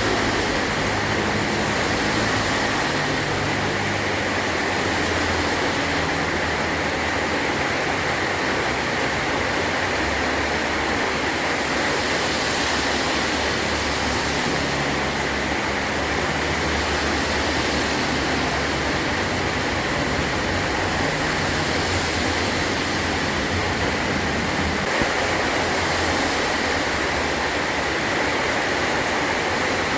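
Heavy rain drumming steadily on a metal roof, an even rush with no break or clear thunderclap.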